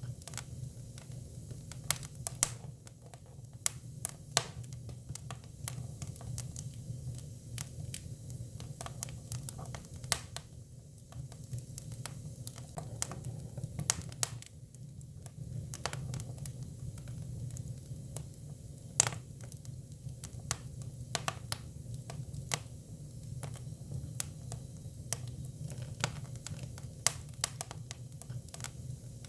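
Hinoki cypress firewood burning, crackling and popping at irregular intervals, with a few louder snaps, over a steady low rumble.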